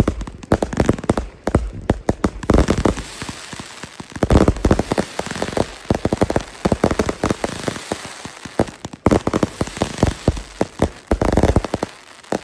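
Fireworks going off: a dense, irregular run of rapid bangs and crackles over a steady hiss.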